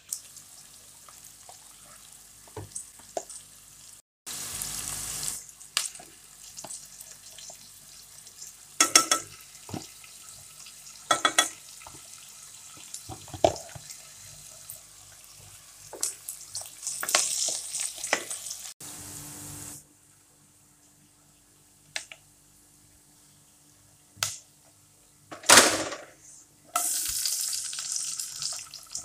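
Onions and spice paste frying in oil in a pan, sizzling in stretches, with a wooden spatula stirring and knocking against the pan now and then.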